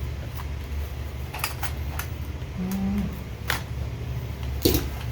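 A tube of 1 oz silver Buffalo rounds being opened and handled: about half a dozen light, separate clicks and taps, over a steady low hum.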